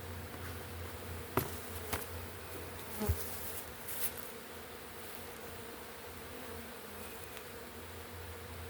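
A honey bee swarm buzzing steadily as many bees fly around the cluster. A few short sharp clicks or knocks sound in the first half.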